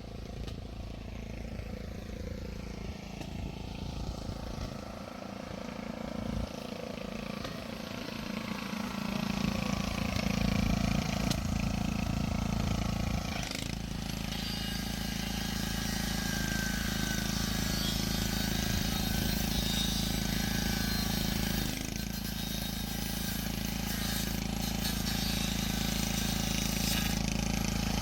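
An engine running steadily, growing louder over the first ten seconds or so, then holding level.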